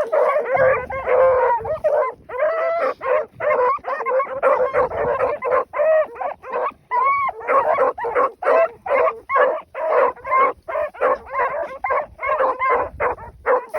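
A pack of rabbit hounds giving tongue as they run a rabbit's scent trail: overlapping short barks, several a second, with one longer rising-and-falling bawl about halfway through.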